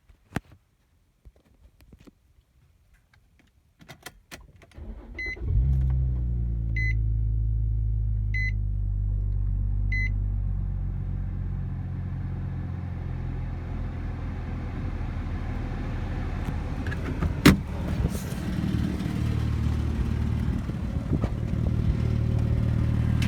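2005 Infiniti FX35's 3.5-litre V6 started from cold with the key: a few clicks of the key, then the engine cranks, catches about five seconds in and settles into a steady idle. A dashboard warning chime beeps four times, about a second and a half apart, just after it catches. A sharp click comes near the end, and after it the idle is a little louder.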